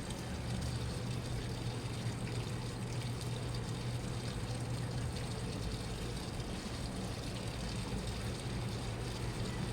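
Washing machine running, with water moving in the drum over a steady low hum.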